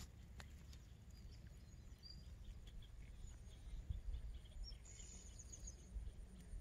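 Faint small birds chirping, a scatter of short calls in the middle with a brief high trill, over a low steady rumble.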